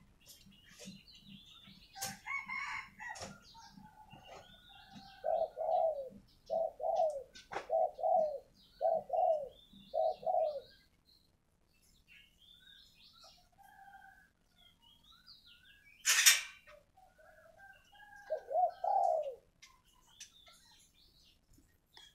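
Spotted dove cooing: a run of about six coos about a second apart, and another short phrase near the end, with small birds chirping higher up. A short sharp noise comes about two-thirds of the way in.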